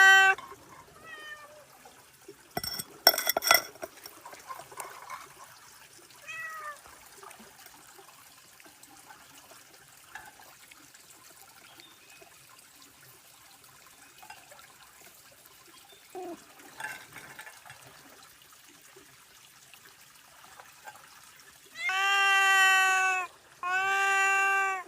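Domestic cat meowing: a few faint short meows, then two long, loud meows near the end. A quick cluster of clicks comes about three seconds in.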